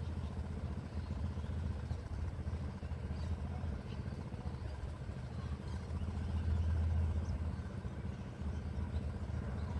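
Low, steady rumble of an electric commuter train approaching along the line from a distance, swelling slightly about two-thirds of the way through.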